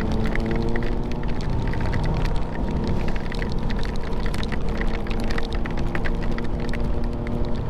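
Motorcycle engine running steadily at cruising speed, with wind rumble and a rapid scatter of raindrops ticking against the camera and microphone.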